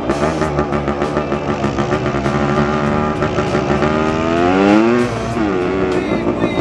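Dirt bike engine revving: the pitch climbs steadily for about a second to a peak near five seconds in, then drops quickly back down.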